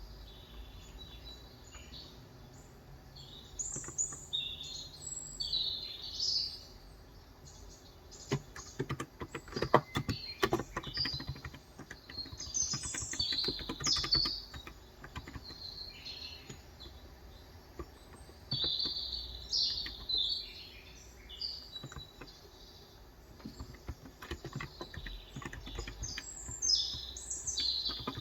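Intermittent bursts of typing on a COX Endeavour electro-capacitive 35 g tenkeyless keyboard, keystrokes thickest about a third of the way in, with small birds chirping repeatedly throughout.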